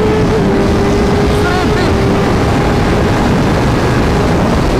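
Kawasaki ZX-10R's inline-four engine running at high revs, its pitch almost steady with a small dip a little under two seconds in, over heavy wind rush.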